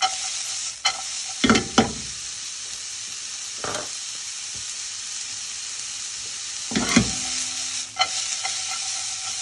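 Sliced onions sizzling in very hot vegetable oil in a pan: a steady high hiss, broken several times by the knock and scrape of a utensil stirring them.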